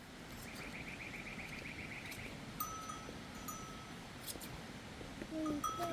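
Bells on sheep ringing in clear, steady tones, with a short rapid trill in the first couple of seconds and a brief low call near the end.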